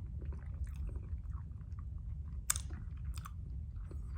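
Close-up chewing of a soft, cold Japanese jelly sweet, with two sharp clicks about two and a half and three and a quarter seconds in, over a steady low hum.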